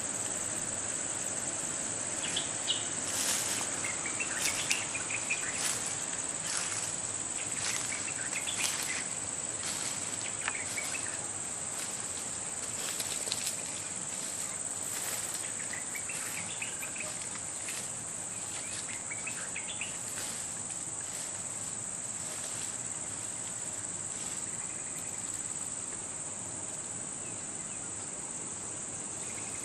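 Steady high-pitched drone of insects, with faint scattered chirps over it.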